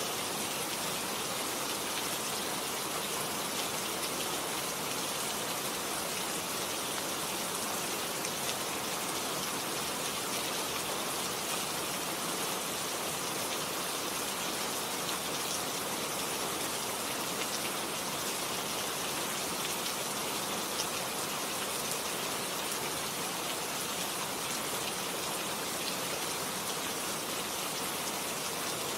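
Steady heavy rain, a dense even hiss of drops falling on surfaces with scattered small ticks of individual drops.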